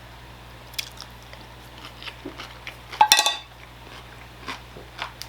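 A person chewing and biting fried chicken close to the microphone: small scattered mouth clicks, with one louder, brief noise about three seconds in.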